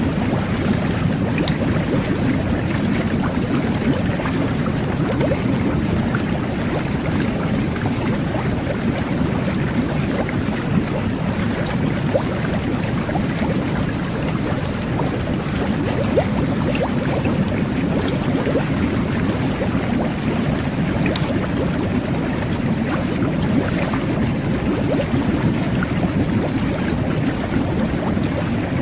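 Jet bath (whirlpool bubble bath) running: water churning and bubbling steadily under the jets, with a deep, low rumble.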